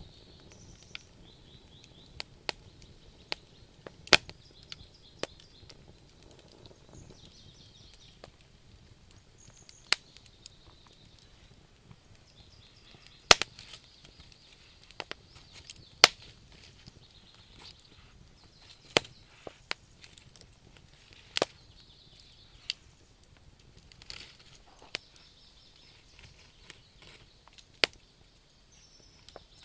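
Wood fire crackling: sharp, irregular pops and snaps, about one or two a second, over a low, steady burning rumble.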